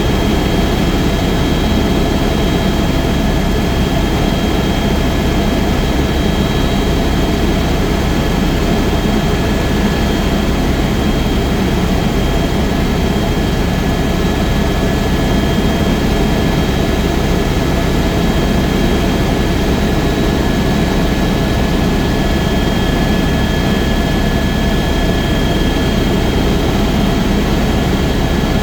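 Helicopter in steady flight: a constant turbine whine with a few fixed high tones over a heavy, even rotor-and-engine rumble, with no change in pitch or loudness.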